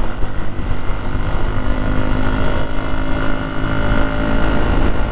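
Hero Xpulse 200's single-cylinder engine running at a steady speed while riding, with a steady drone and wind rumble on the helmet-mounted microphone.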